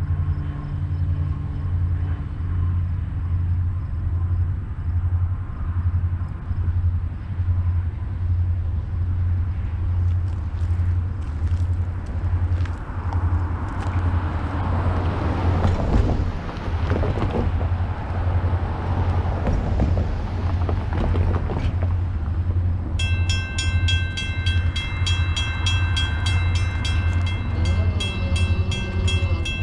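A train passing: a steady, pulsing low rumble of a diesel locomotive, with clicking of wheels over rail joints building through the middle. About two-thirds of the way in, a rapidly repeating high ringing starts, like a bell.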